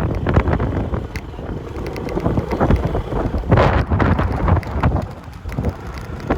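Wind buffeting the microphone in uneven gusts over a low, steady rumble, with one stronger gust about three and a half seconds in.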